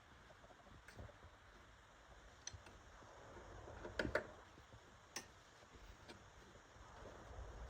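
A few scattered light clicks and taps over quiet room tone, the loudest a quick pair about four seconds in.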